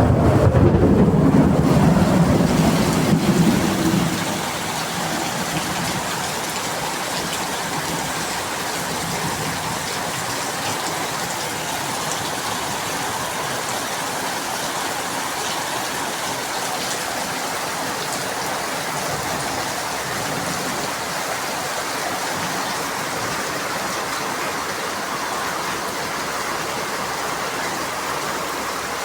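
Heavy rain falling steadily, with a loud low rumble of thunder through the first four seconds.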